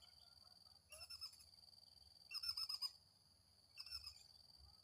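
A squirrel (tupai) giving three short bouts of quick, bird-like chirps about a second and a half apart, which the uploader takes for a mating call. A steady high tone runs underneath.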